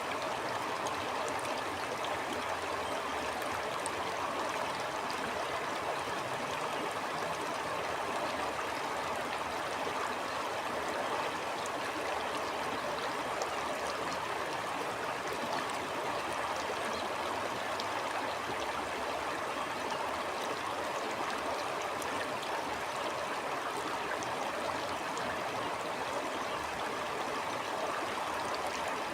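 Stream flowing steadily, a continuous rush of water with small splashes.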